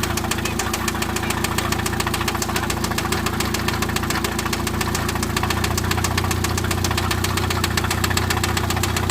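2009 Mitsubishi Lancer four-cylinder engine idling with a steady, rapid knock riding over the running engine: the noise pointed out as the sign of an internal engine fault.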